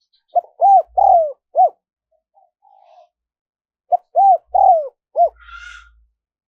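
Spotted dove cooing: two song phrases of four coos each, about three and a half seconds apart, each followed by a soft trailing note. A short, higher rasping sound follows the second phrase.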